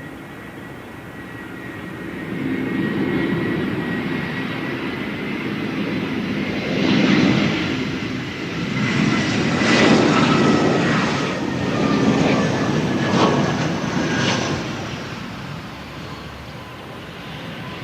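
Batik Air Airbus A320-214's CFM56 jet engines on its landing arrival: a steady high fan whine over a broad rumble. The sound swells after a couple of seconds, is loudest through the middle of the passage, and fades near the end.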